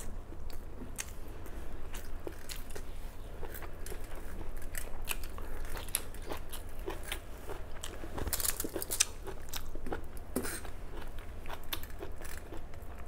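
A person biting and chewing crunchy green vegetables, bok choy by the look of them, close to the mouth, with many small crisp crunches and wet mouth clicks throughout.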